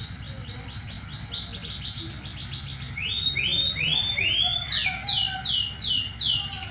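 Canary singing a lure song, built from phrases of repeated whistled notes. It opens with quick falling notes at about four a second, moves to a lower phrase of about four notes near the middle, then to longer high notes that sweep down near the end.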